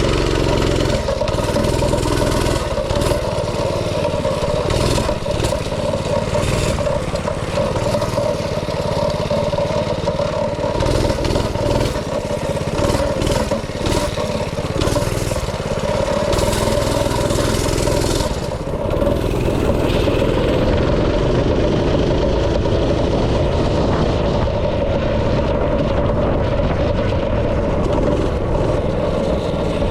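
Small engine of a go-kart or mini bike running under way, its speed rising and falling as it is ridden, with some clatter from the chassis.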